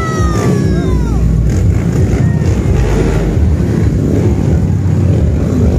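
Dirt bike engine revving hard as the bike climbs over a stack of tyres: a high rev falls away within the first second, then the engine keeps running loud and low.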